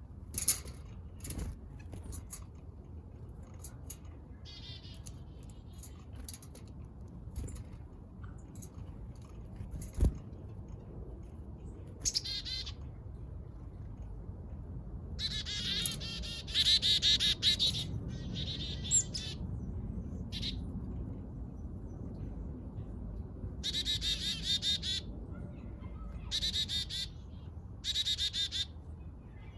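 Small backyard songbirds chirping in several short clusters of rapid, high chirps, busiest in the second half, over a low steady background hum. A few sharp taps stand out, the loudest about ten seconds in.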